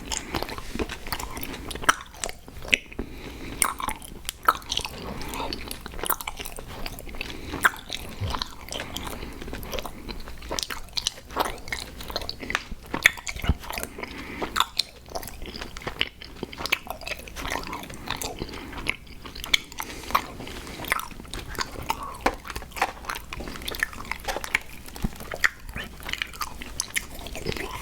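Close-miked chewing and biting of sour gummy worms cereal: crunching of the cereal pieces mixed with sticky, wet mouth sounds, in a dense stream of irregular small clicks.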